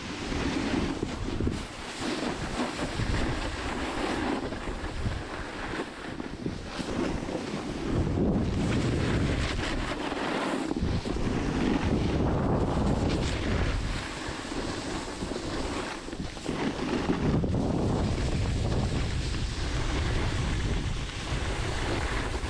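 Wind buffeting a phone microphone: a rushing, gusty rumble that swells and dips.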